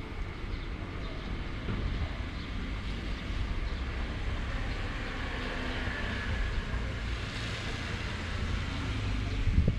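Heavy rain falling with wind gusting, a low, uneven rumble under a steady hiss that swells a little in the middle. A short thump near the end.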